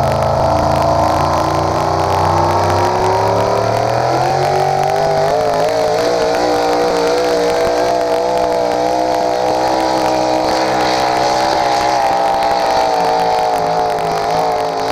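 Pulling truck's engine held at high revs under full throttle as it drags the weight-transfer sled down the track; the pitch climbs a little over the first few seconds, then holds steady and high.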